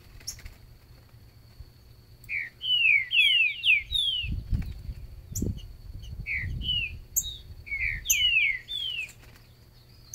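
Green-winged saltator (trinca-ferro) singing: three short phrases of quick, downward-sliding whistled notes, with dull low thumps in the middle.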